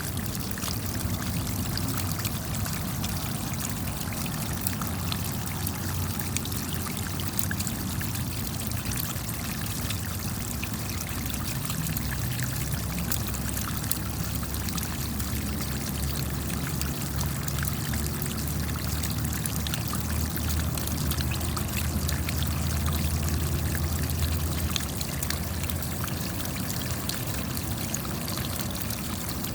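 Steady rainfall: a dense, even hiss of many small drops striking, with a low rumble underneath that swells a little past the middle.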